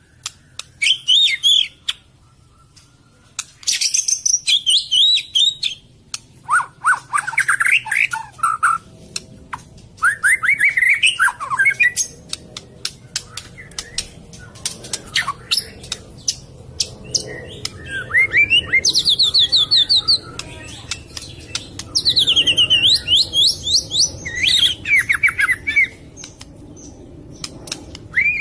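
A murai, a Copsychus songbird, singing in varied phrases of quick whistled and buzzy notes, broken by stretches of rapid clicking calls and short pauses.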